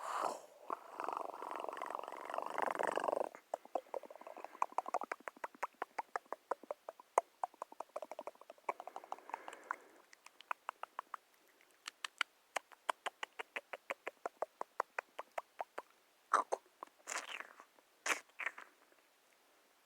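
A hissing rustle for about three seconds, then a long run of soft, quick clicks, about four or five a second, with a few louder separate sounds near the end.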